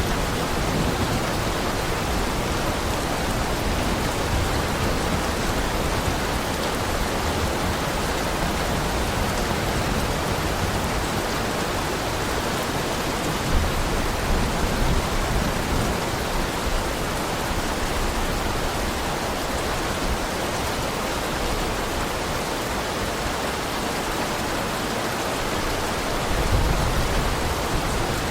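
Heavy rain falling in a steady, even hiss, with brief low rumbles about halfway through and again near the end.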